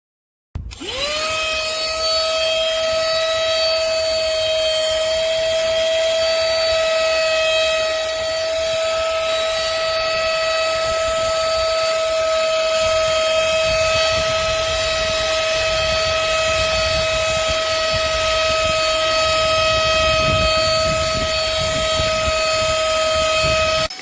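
Horsepower Duck compact cordless stick vacuum's motor spinning up quickly about half a second in, then running at a steady high whine with rushing air. It cuts off near the end.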